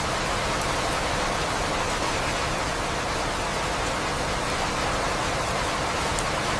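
Steady rain with an even, unbroken hiss and no separate drops or thunder standing out.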